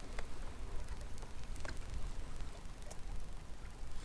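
Steady low rumble of wind on the microphone over a faint background hiss, with a few light ticks and patters, such as water lapping on the kayak hull.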